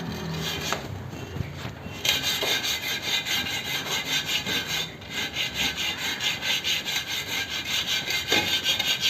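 Emery sheet being rubbed back and forth by hand over the rough bead seat of a wheel rim to smooth it so the tubeless tyre will seal without leaking. It is light at first, then settles into quick, even rubbing strokes about two seconds in, with a brief pause halfway.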